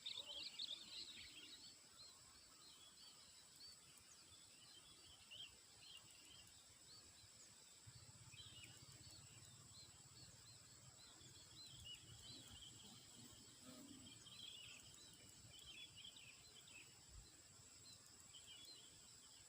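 Faint outdoor ambience: many short chirps of small birds scattered throughout, over a steady high-pitched insect drone.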